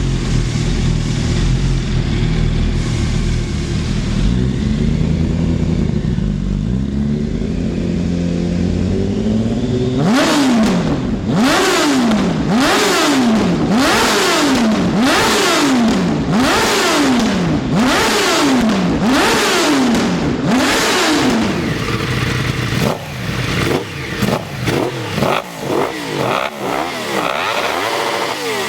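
Yamaha R1 sport bike's inline-four engine heard through its exhaust: a low steady run with a slow pitch rise, then about ten quick revs in a row, each climbing in pitch and dropping off sharply about a second apart. Near the end the revs turn choppy and uneven.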